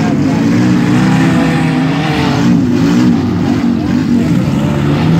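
Several front-wheel-drive demolition derby cars' engines running and revving at once, their pitches rising and falling over one another.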